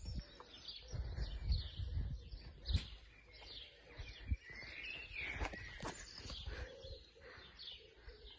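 Birds chirping, with an irregular low rumble on the moving phone microphone.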